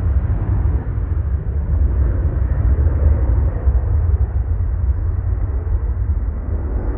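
Jet airliner's engines: a loud, deep rumble that slowly fades.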